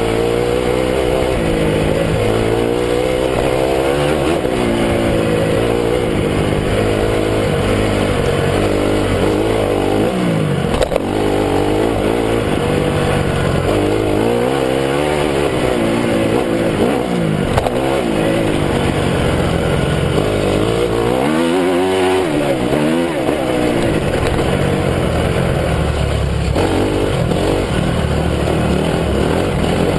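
A 2009 Honda CRF250 motocross bike's single-cylinder four-stroke engine revving up and dropping back over and over, with the pitch climbing and falling through gear changes. A sharp knock comes about eleven seconds in, and another near eighteen seconds.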